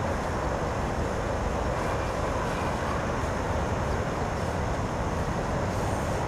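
Steady wind rush on the microphone, with water noise, aboard a wooden sailing boat under way.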